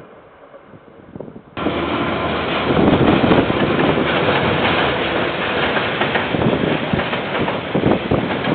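Train passing close by: a loud, steady rumble of wheels on the rails with irregular clicks and knocks. It starts abruptly about a second and a half in, after a quiet start.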